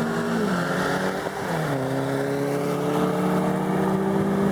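Car engine under load pulling through the gears: its note climbs slowly, and the pitch falls twice, once about half a second in and again about a second and a half in, as at upshifts.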